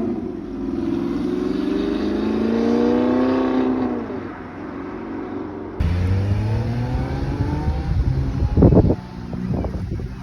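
A performance car's engine accelerating away, its pitch climbing and then fading over the first few seconds. About six seconds in, a deeper engine rumbles at low revs, with a short loud blip of revs near the end.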